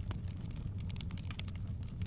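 Burning firewood crackling, with many quick small pops and snaps over a low, steady rumble of flame.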